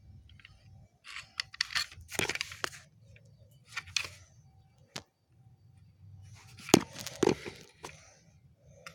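Bursts of rustling and crackling with sharp clicks and cracks, the loudest cracks about three-quarters of the way through, over a low steady hum.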